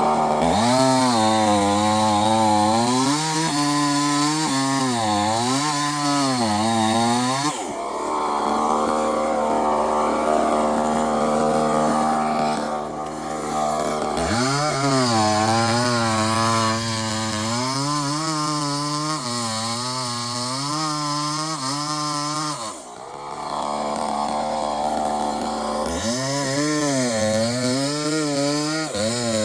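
Two-stroke chainsaw running hard, its engine pitch swinging up and down again and again as it cuts through wood. It eases into a rougher, less steady sound twice along the way.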